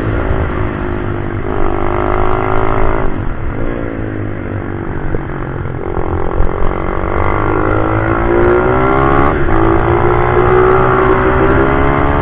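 Pit bike's small single-cylinder four-stroke engine being ridden hard. Its pitch climbs under throttle and drops sharply several times as the rider shifts gear or rolls off for corners.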